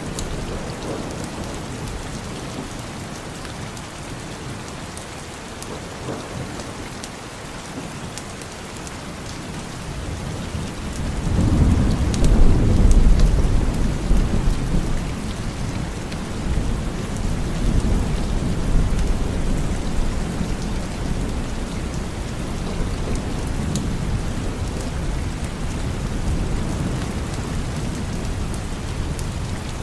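Steady rain falling. About a third of the way in, a long roll of thunder swells in, is loudest a couple of seconds later, and then keeps rumbling more quietly in waves.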